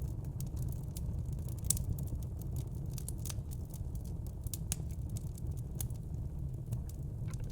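Wood fire crackling: irregular sharp pops and snaps over a steady low rumble, with one louder pop about two seconds in.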